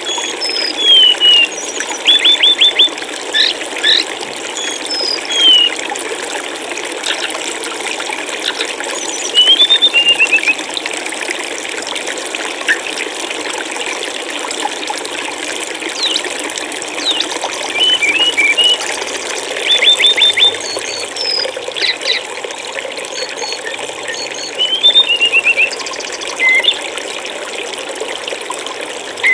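Steady rush of flowing water, with small songbirds calling over it every few seconds: short downward-sliding chirps and quick runs of four or five sharp notes.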